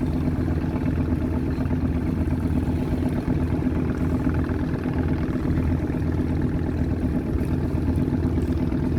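A boat's engine running steadily at an even speed, a deep hum with a strong low drone.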